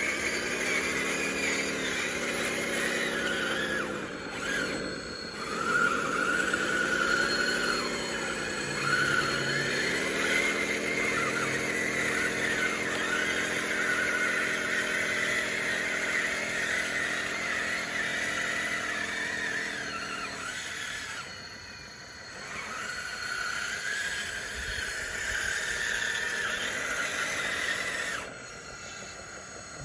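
Radio-controlled bulldozer's electric motors whining as it pushes dirt, the pitch dipping and recovering under load, with a higher squeal from the running gear over it. The motor whine stops about two-thirds of the way through; the squeal carries on until shortly before the end.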